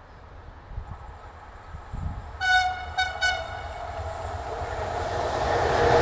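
Train horn sounding one longer blast and then two short ones about two and a half seconds in, as the rumble of an approaching train grows steadily louder.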